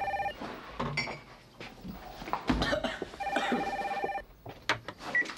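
Telephone ringing twice, each ring a trilled electronic tone about a second long, the rings about three seconds apart, with a few light knocks between.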